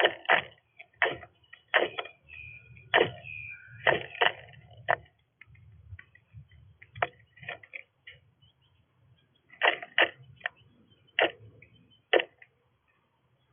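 Irregular sharp taps and knocks at a bird feeder, bunched in quick runs with gaps between, over a faint low hum.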